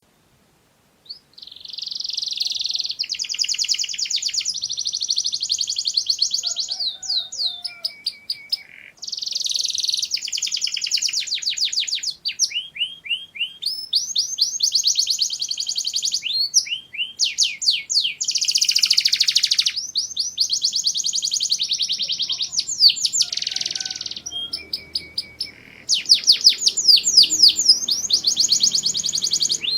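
Domestic canary singing: long phrases of fast rolls and trills with short breaks between them, starting about a second in.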